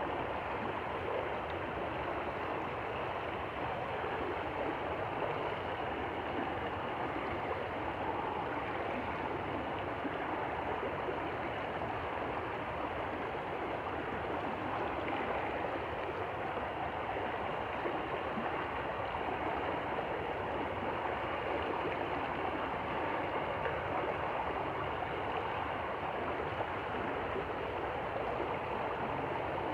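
A stream flowing, a steady, even wash of water noise with no change in level.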